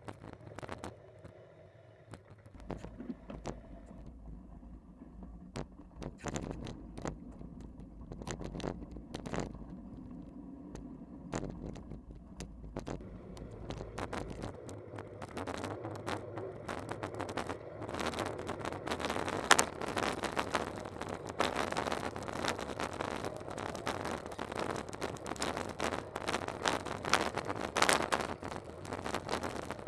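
Jolting ride noise from a bike on rough ground: a steady clatter of knocks and rattles over a low rumble, growing louder and rougher in the second half.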